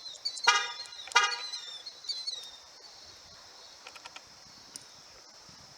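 Car horn giving two short toots about two-thirds of a second apart, with birds chirping around them and a steady insect hum in the background.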